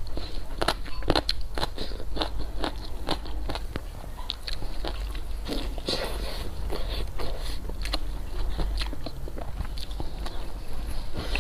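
Close-miked eating: a person biting and chewing food, with many irregular small clicks from the mouth.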